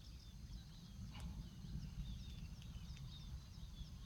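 Small birds chirping, many short high calls, over a steady low rumble, with a couple of faint clicks.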